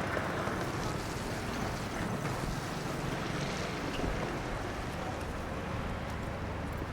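Street traffic on a wet road: tyre hiss from a vehicle swelling at the start and fading over about a second, over a steady low rumble of traffic.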